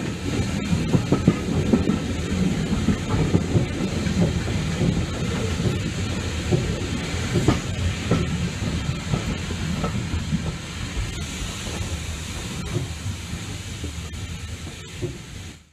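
Railway brake van rolling along the track, a steady rumble with scattered clicks of the wheels over rail joints and a hiss above it. It fades out near the end.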